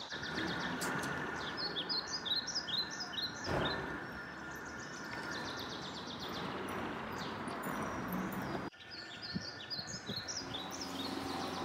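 A songbird singing short bursts of quick, high chirping notes over steady outdoor background noise. The background drops out abruptly about nine seconds in, and the chirping then starts again.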